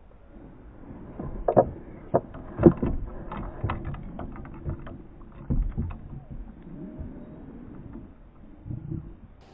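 Irregular knocks and clatter in a kayak, as gear or the paddle bumps the hull. There are a few loud knocks in the first six seconds, a quick run of lighter clicks between them, and one more knock near the end.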